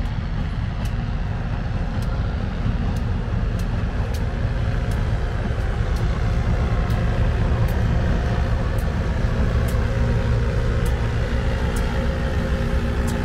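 Diesel locomotive passing with a train of passenger cars: a steady low engine and wheel rumble that grows louder as the locomotive goes by, with faint regular clicks.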